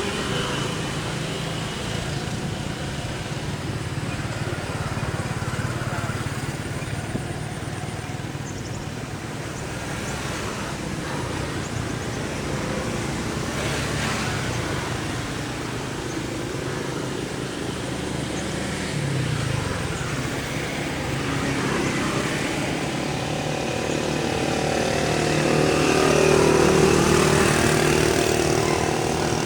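Motor vehicle engines running by, a steady low hum that rises and falls in pitch, swelling loudest shortly before the end.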